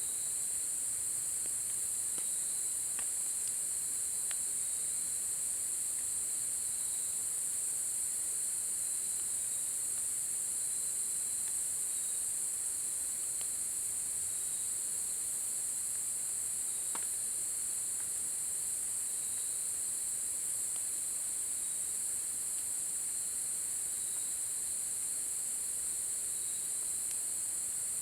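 Insects chirring steadily in a continuous high-pitched drone, with a second, thinner insect trill whose pitch dips about every two seconds. A few faint scattered ticks, such as drips or crackles, sound now and then.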